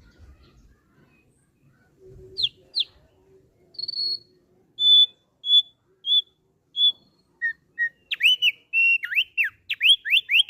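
Thick-billed heleia (opior paruh tebal) singing clear whistled notes. After a near-quiet couple of seconds come two quick falling notes, then a string of even, level whistles about two a second, and a fast run of sweeping, falling notes near the end.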